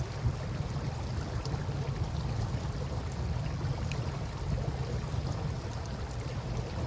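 Campfire crackling beside a flowing river: a steady rush of water with a few small pops and snaps from the fire scattered through it.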